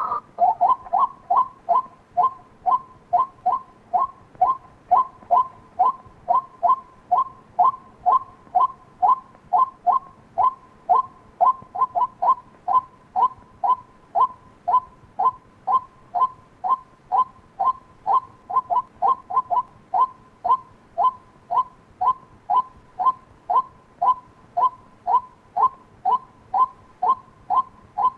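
White-breasted waterhen calling: a long, even run of short, sharp notes, about two a second. It is a call meant to lure waterhens in.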